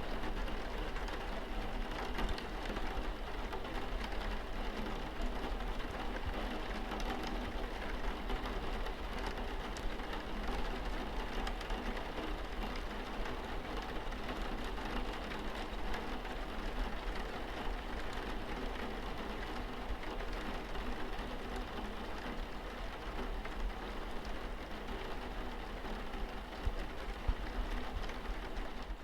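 Rain falling on a car's windscreen: a steady patter of many small drops on the glass, with a low hum underneath.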